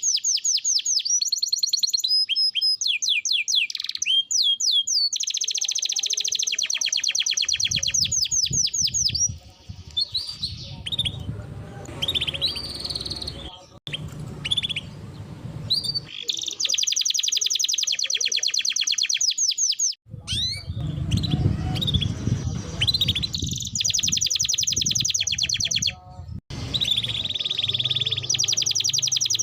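Domestic canary singing: long rolling trills of rapid repeated notes broken by short gliding chirps, with a low rumbling background under parts of the song.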